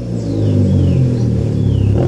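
Exhaust of a 2014 Ford Fusion's 2.0 EcoBoost turbocharged four-cylinder with the muffler deleted, loud and rumbling as the engine is revved, the pitch rising and then falling back.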